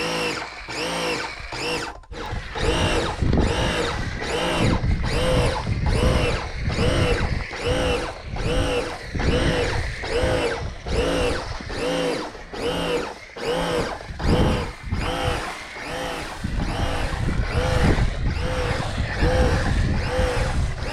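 Pressure washer running and spraying, with a regular pulsing rise and fall in pitch about one and a half times a second.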